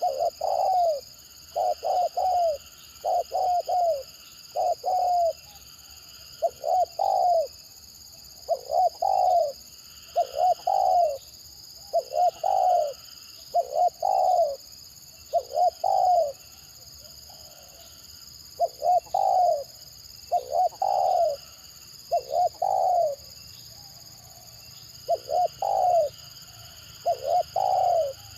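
Spotted dove cooing over and over in short stuttering phrases of two or three quick notes, a phrase every second or two. A steady high-pitched hiss runs underneath.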